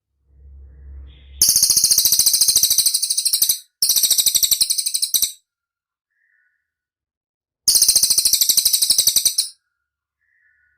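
A bird singing a high, very fast trill in three bursts of about two seconds each, the first two back to back and the third after a pause of a couple of seconds. A faint low rumble comes just before the first burst.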